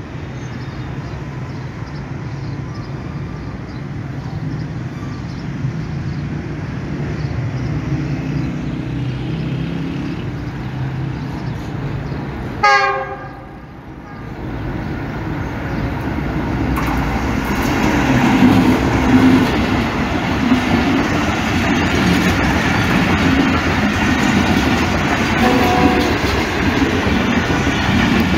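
Pakistan Railways diesel locomotive hauling a passenger express, approaching with a steady low rumble, sounding one short horn blast about halfway through, then passing close by with the coaches' wheels running over the rails, louder over the last third.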